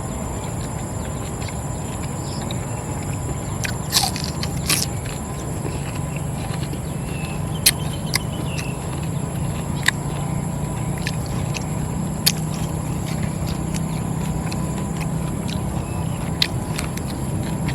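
Steady low rumble under a constant high trill of crickets, with a handful of sharp clicks or taps about every two to three seconds.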